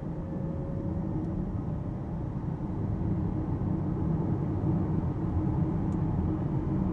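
Road and tyre rumble of an Alpine A390 electric car on the move, with no engine note. The rumble grows a little louder about three seconds in.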